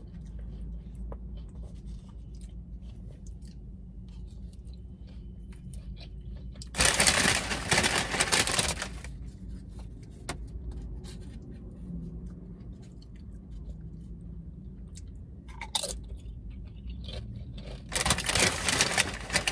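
Close-up chewing and mouth sounds from eating a burrito bowl, with small soft clicks, over a steady low hum. Two loud crunchy stretches of about two seconds each come about seven seconds in and again near the end.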